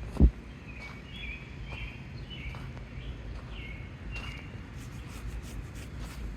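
Small birds chirping in repeated short calls over steady low outdoor background noise. A single dull thump just after the start is the loudest sound.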